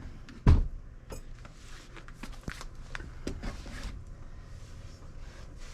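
Things being handled and put away on a table: one loud thump about half a second in, then scattered light knocks, clicks and rustling.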